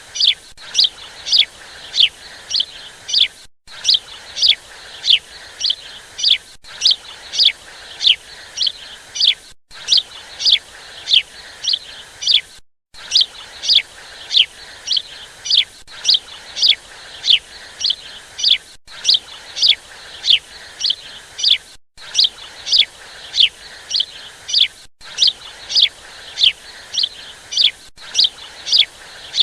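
Bird twittering: short, high chirps that sweep downward, repeated about two or three times a second in an even rhythm. The sound cuts out briefly every few seconds.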